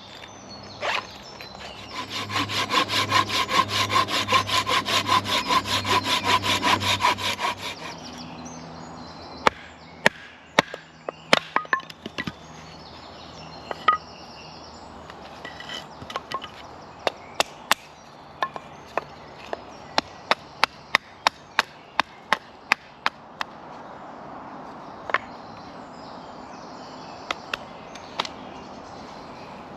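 A hand saw cutting through a stick of green wood in fast, even strokes, about four a second, for some six seconds. Then comes a long run of sharp wooden knocks and cracks, some spaced out and some in quick runs, as the wood is worked.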